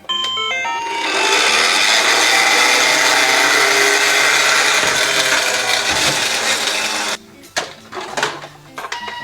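A few short musical beeps, then a loud steady mechanical whirring noise for about six seconds that stops abruptly, followed by scattered clicks and short tones.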